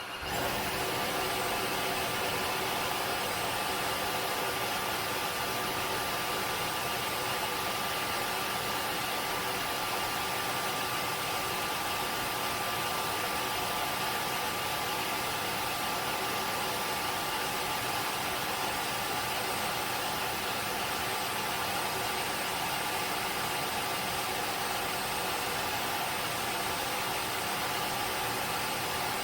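Tineco Floor ONE S7 PRO wet-dry floor cleaner in the air-drying stage of its self-cleaning cycle, blowing air to dry the brush roller: a steady motor whir with a faint thin whine that starts up and then runs at an even level.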